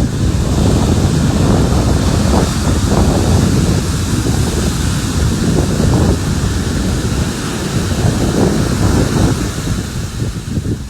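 Ocean surf breaking on the shore, a steady loud wash, with wind buffeting the microphone throughout.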